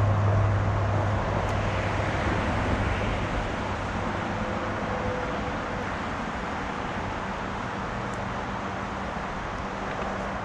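Creek water rushing steadily, a constant hiss of flowing current that eases off slightly over the seconds.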